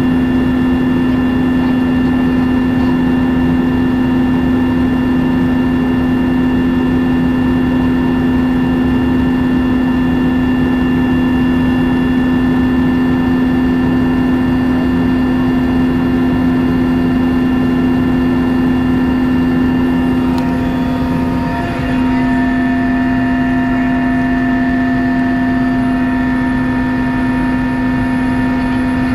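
Helicopter engine and rotor noise heard from inside the cabin: a loud, steady drone with a constant hum. About 21 seconds in the level dips briefly and the higher tones shift slightly.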